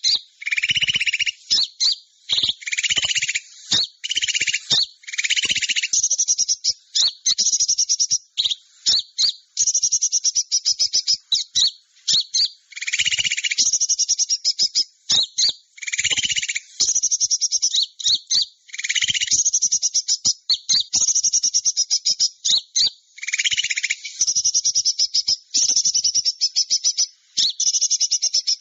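Bird-lure recording of small birds calling: fast chattering trills and chirps, repeated in bursts of about a second with short gaps, some bursts lower-pitched than others.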